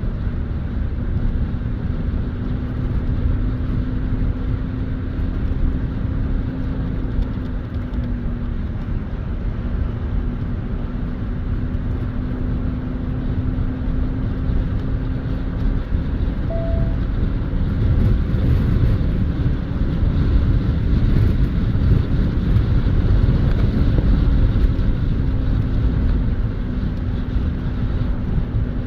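Car driving at road speed, heard from inside the cabin: a steady low rumble of engine and tyres with a constant droning hum, growing somewhat louder in the last third.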